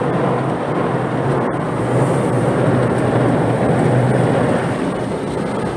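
Automatic car wash machinery running, heard from inside the car: a loud, steady wash of noise with no separate strokes.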